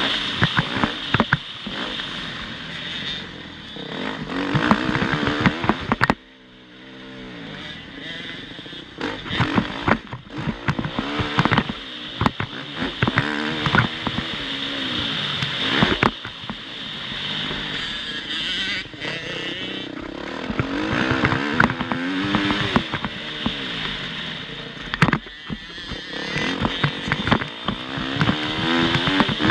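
Motocross bike engine revving up and down over and over as the rider accelerates and shifts, with many sharp clattering knocks and a steady hiss. The sound drops off abruptly about six seconds in, then builds up again.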